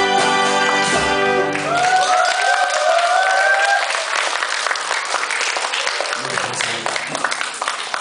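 A band's final held keyboard chord rings out and stops about a second and a half in, then the audience applauds, with a few cheering voices near the start of the applause.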